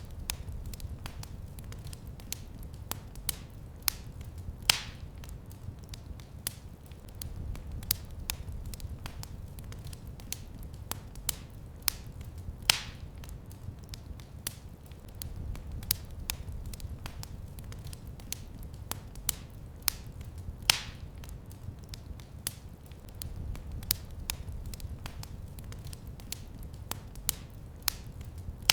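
Wood fire crackling: a steady scatter of small sharp clicks, with louder pops about every eight seconds over a low rumble that swells and fades.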